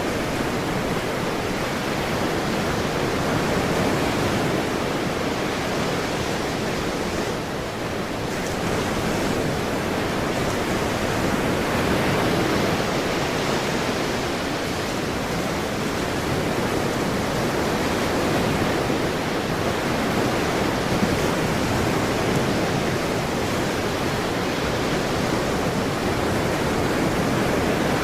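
Ocean surf: a continuous wash of breaking waves that swells and eases slowly, with a slight lull about a quarter of the way in.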